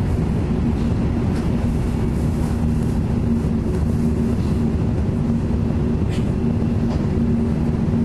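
Steady low rumble inside a Sanyo Shinkansen car travelling at speed, with a steady hum over it and a couple of faint ticks late on.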